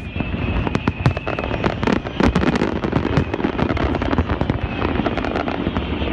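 Fireworks display: a rapid, unbroken string of booms and sharp crackling bangs, so dense that they run into one another.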